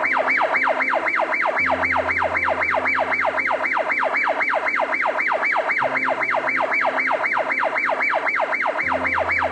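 Electronic yelp siren wailing fast, each sweep rising sharply in pitch and repeating about four times a second, with background music playing low sustained notes beneath it.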